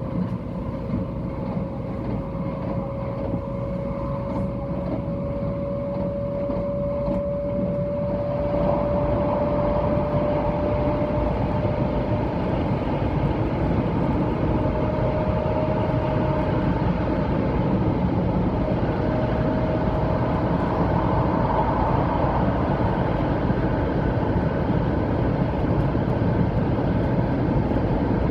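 Running noise inside a 700 series Shinkansen car, with a traction-motor whine that slowly rises in pitch as the train gathers speed. The rumble grows louder over the first several seconds and then holds steady.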